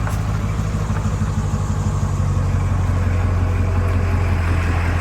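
A motor vehicle's engine running steadily, a low drone with a constant hum that grows a little stronger about two seconds in.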